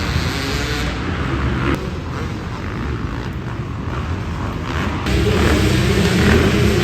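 Small pit bike engines running on the track, several at once, getting louder about five seconds in.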